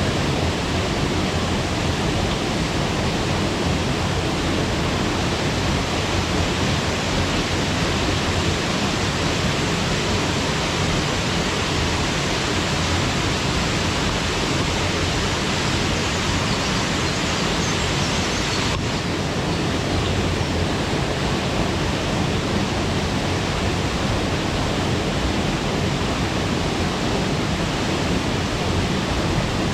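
Waterfall pouring steadily into its pool: a constant, full rush of falling water with no breaks.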